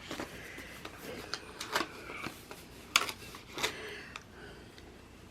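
Paper handling: sticker sheets and planner pages rustling and crinkling, with a few sharp clicks and taps as stickers are peeled and pressed down.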